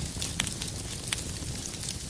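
Wood fire crackling in a fireplace, with a few sharp pops of burning firewood over a steady low rumble and hiss.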